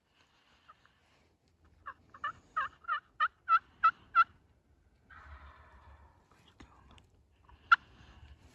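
A series of about nine evenly spaced turkey yelps, three to four a second, getting louder. Then a short scratchy rasp and one sharp click near the end.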